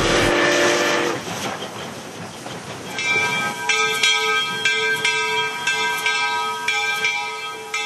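Steam locomotive 2719, a 1923 4-6-2 Pacific: a chime steam whistle sounds over the hiss of steam and cuts off about a second in. From about three seconds in, its bell rings in a steady, regular rhythm.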